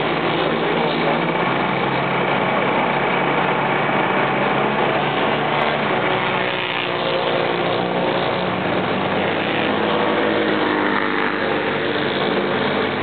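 Several motorcycle engines running at once, a steady din of overlapping engine notes whose pitches drift slowly.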